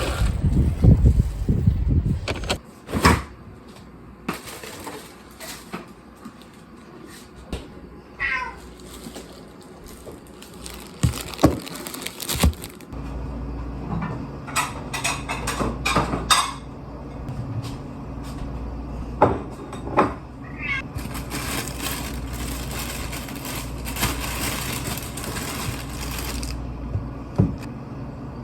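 A cat meows twice, a short cry about a third of the way in and another about two-thirds through, among scattered clicks and knocks. A loud low rumble opens the stretch, and a low steady hum sets in about halfway.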